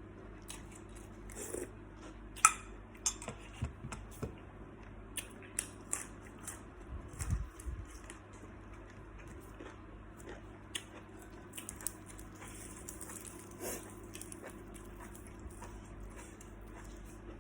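Eating salt-baked shrimp: chewing and biting with scattered crunches and sharp clicks, the loudest a sharp click about two and a half seconds in, over a faint steady low hum.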